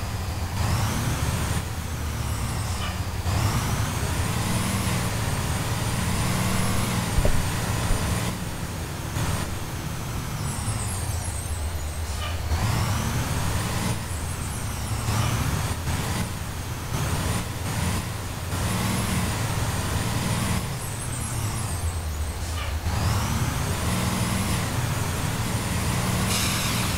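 2016 Blue Bird Vision school bus driving, its engine rumbling as it pulls away and speeds up several times. A whine climbs in pitch with each run of acceleration and drops back as the gears change.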